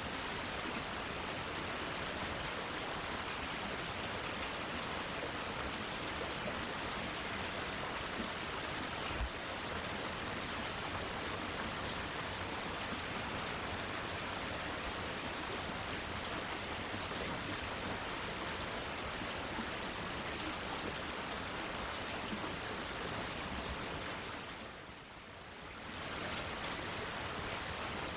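Steady rain falling, an even hiss of many drops, with one faint tap about nine seconds in. Near the end the rain briefly fades down and comes back up.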